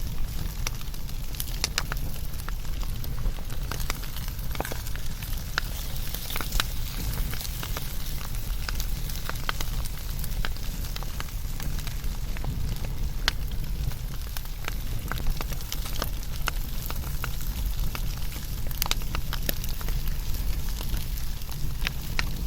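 Wood fire burning with a steady low rumble and frequent, irregular crackles and pops.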